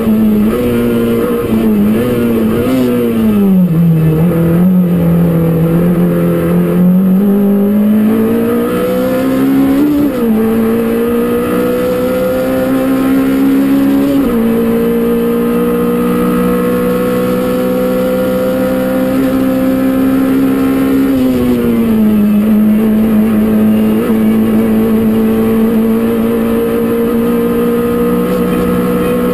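Engine of a Peugeot 205 Rallye Group A rally car driven hard, heard from inside the cockpit. Its revs rise and fall with quick drops as it changes gear and lifts for bends.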